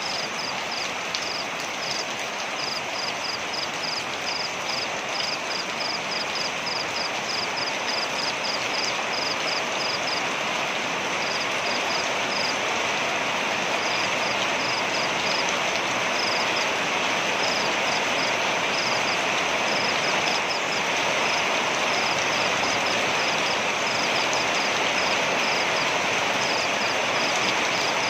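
Waterfall: a steady rush of falling water. Over it a high chirp repeats about three times a second, pausing now and then.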